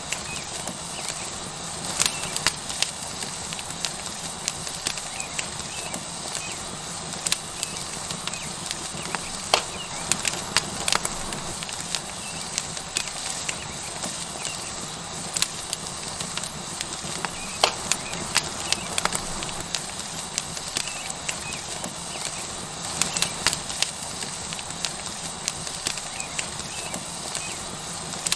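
Tomahawk steak sizzling steadily on a hot rock over a wood fire, with the fire crackling in sharp pops at irregular intervals, some in quick clusters.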